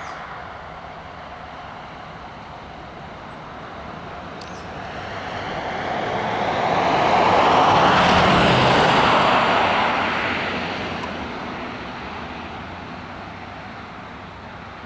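A road vehicle driving past: its engine and tyre noise swells to a peak a little past halfway, then fades away.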